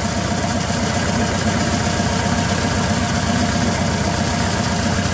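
Volkswagen Beetle's air-cooled flat-four engine idling steadily as it warms up, with an even, fast low pulse.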